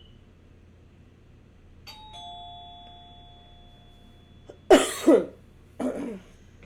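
Two-note ding-dong doorbell chime, a higher note then a lower one ringing on for about two seconds. This is followed by two loud, short bursts from a person's voice.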